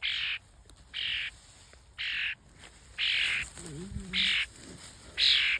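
A hand-raised bird giving short, harsh calls about once a second, six times, typical of begging for food.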